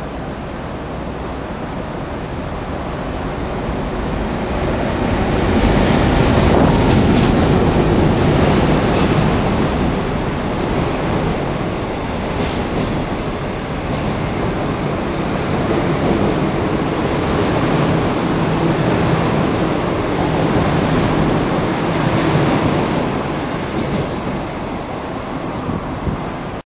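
Intercity passenger train passing through a station at speed without stopping. Its rumble and wheel noise build as it approaches, are loudest a few seconds in, and carry on with occasional clicks and clatter as the coaches go by, then ease off near the end.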